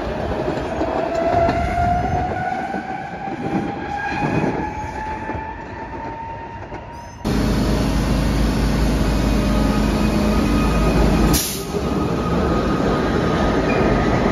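A SEPTA electric railcar's motors whine, rising steadily in pitch. After a sudden cut, a SEPTA subway train rumbles loudly through an underground station, with one brief sharp crack a few seconds in.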